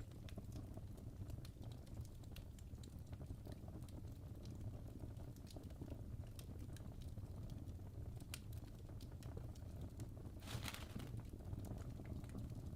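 Fire crackling: scattered sharp snaps and pops over a steady low rumble, with a brief louder hiss near the end.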